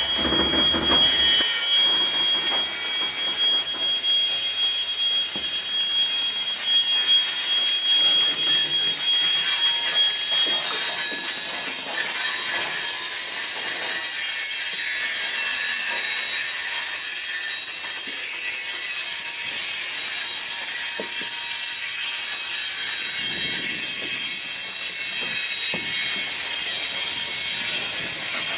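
Cars of a freight ore train rolling by on steel rails, a steady grinding rush with high-pitched squeal from the wheels on the rail; one squealing tone holds for about the first ten seconds, then fades out.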